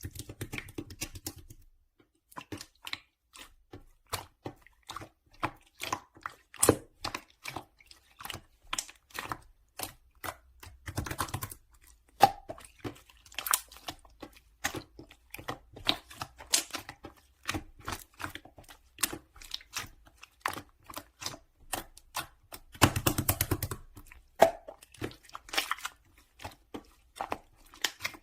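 Slime being pressed, squished and pulled by hand, making many quick, irregular sticky clicks and pops. There are two denser bursts of squelching, about eleven seconds in and again near the end.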